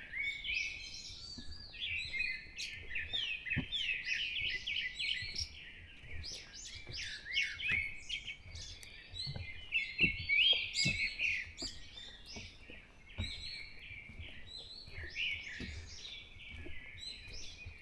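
Dawn chorus: several birds singing and chirping over one another in a steady stream of quick rising and falling notes.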